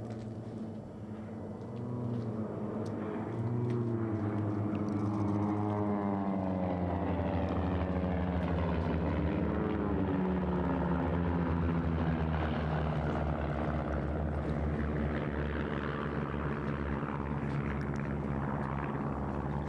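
Propeller airplane engines running as aircraft fly by. The sound grows louder about two and four seconds in, and the engine pitch bends downward as the planes pass, then settles into a steady drone.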